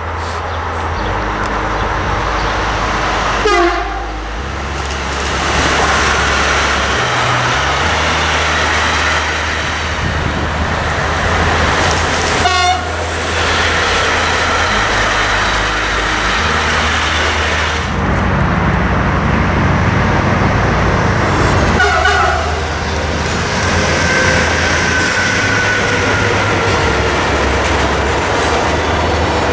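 A train running past on the line: a steady low rumble with rail and wheel noise, broken by a few short sharp disturbances and, late on, a faint falling tone.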